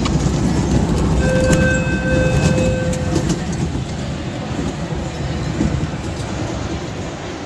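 Ride train rumbling and clattering along its track, with a steady high tone sounding for about a second and a half a little over a second in. The rumble slowly fades as the ride slows.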